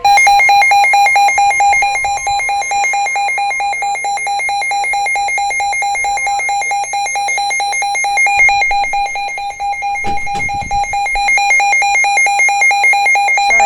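Emergency Alert System attention signal: a loud, steady, harsh two-tone alarm that sounds without a break for about 13 seconds to announce a flash flood warning.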